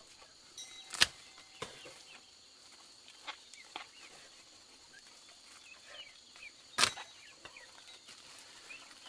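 Two sharp knocks, one about a second in and one near seven seconds, with a few fainter taps between them, over faint short chirps.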